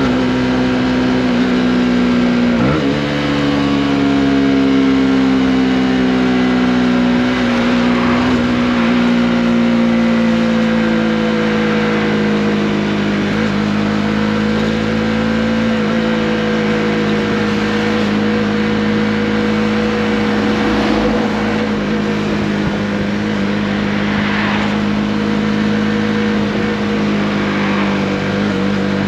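Honda CB125R's single-cylinder four-stroke engine running while riding, with a brief break in the note about three seconds in, like a gear change. After that the engine note falls slowly, then holds steady at cruising speed.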